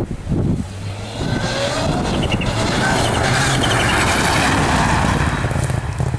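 Rally car approaching and passing at speed, its engine note rising as it closes in. A broad rush of noise builds to its loudest in the middle, then eases slightly near the end.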